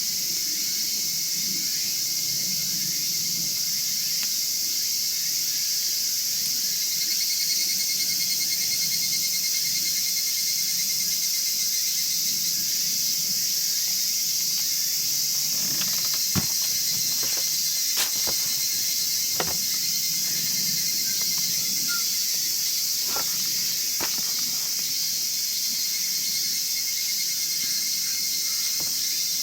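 Steady high chorus of insects outdoors, with several sharp pops from firewood crackling in a chiminea over the second half.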